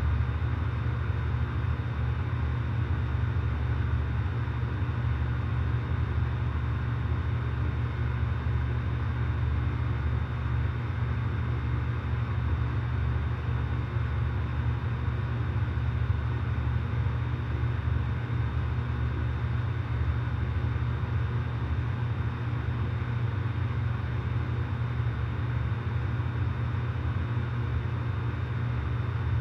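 Outdoor air conditioner condensing units running steadily: a constant low hum of compressors and fans, with a faint steady high whine.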